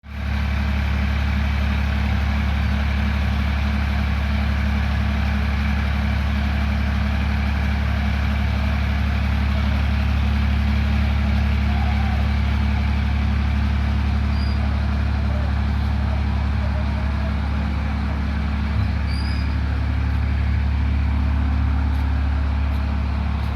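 A steady, deep mechanical hum that holds level without a break.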